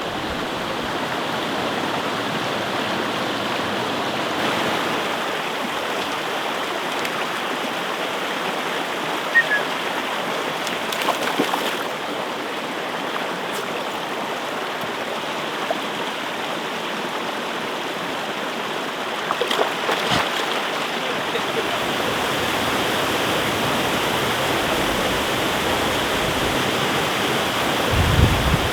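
Mountain stream rushing steadily, with a few faint clicks along the way.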